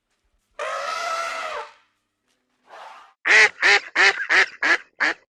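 A duck quacking: a run of about seven short, loud quacks, three to four a second, in the second half. Before them there is one longer, drawn-out call.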